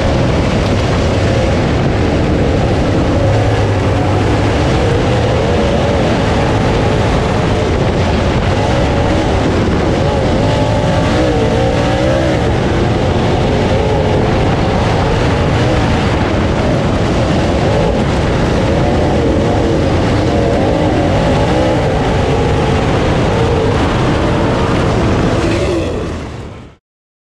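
Late model race car engine running hard at speed, its pitch wavering up and down as the throttle is worked, under a steady rush of noise. The sound fades out about a second before the end.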